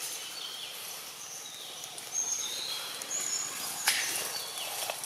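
Birds calling in short high chirps, several of them falling in pitch, over a steady high hiss of outdoor ambience, with one sharp click about four seconds in.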